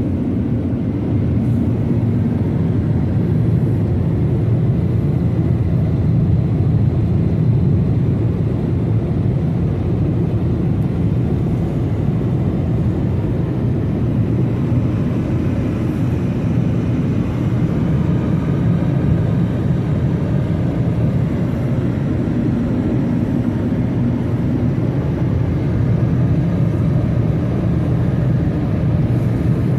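Automatic car wash machinery running: a steady, loud low rumble that holds without a break.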